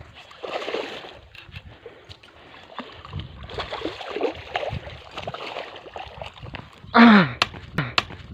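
Water splashing and sloshing as a hooked fish is fought at the surface, with people's voices in the background and a loud shout about seven seconds in.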